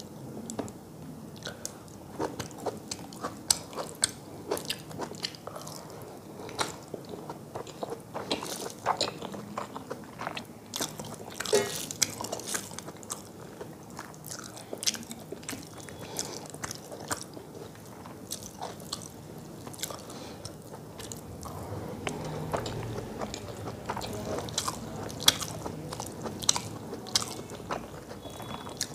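Close-miked chewing and wet mouth sounds of a person eating rice and fish curry, with many short sharp smacks and clicks. Fingers work the rice on a metal plate between mouthfuls.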